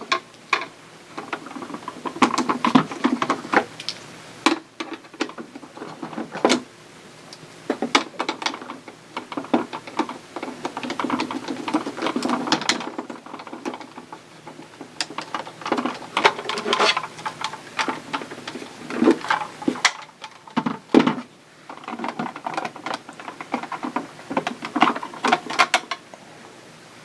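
Hard plastic parts of a Kenner Power of the Force electronic X-Wing toy being handled and fitted back together: irregular clicks, knocks and rattles, some in quick runs, with short pauses between them.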